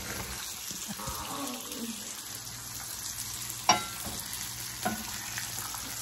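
Bacon and eggs sizzling as they fry, with a wooden spoon stirring eggs in a stainless steel pan. One sharp clink stands out a little past halfway, with a fainter one soon after.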